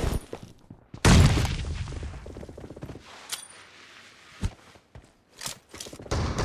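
Gunfire in a shooter video game: a loud burst about a second in that dies away, then scattered single shots.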